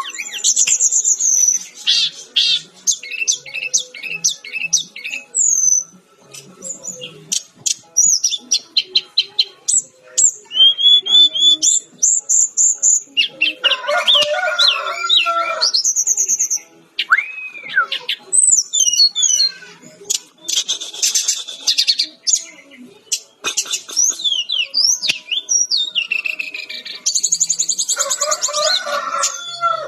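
Brown-chested jungle flycatcher singing a long, varied song in full voice: fast runs of high chirps, whistled notes sliding up and down, and trills, broken by short pauses.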